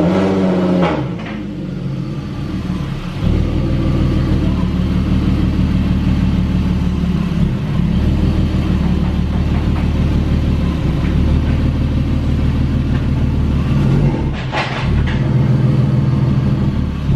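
Volkswagen Golf R32's 3.2-litre VR6 engine running at low revs as the car creeps forward, with a brief change in the engine sound about fourteen seconds in.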